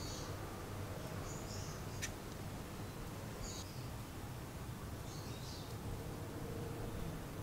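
Short bird chirps repeating every couple of seconds over a steady low background hum, with one sharp click about two seconds in.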